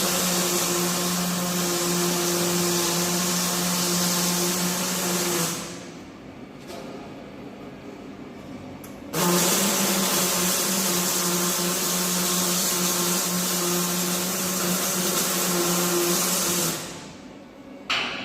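Electric arc welding: two long welding runs of about six and seven seconds, an even crackling hiss over a steady hum, with a quieter pause between them.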